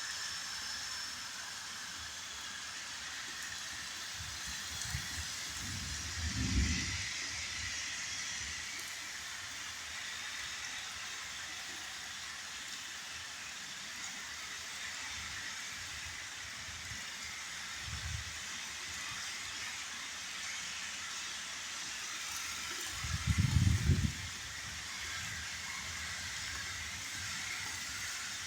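Steady rain falling, a continuous even hiss. Two short low rumbles break through, one about six seconds in and a louder one a little past the two-thirds mark.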